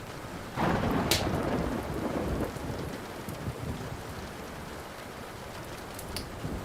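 Steady rain with a clap of thunder that breaks just under a second in and rumbles away over about two seconds. A wood fire crackles over it, with a few sharp pops.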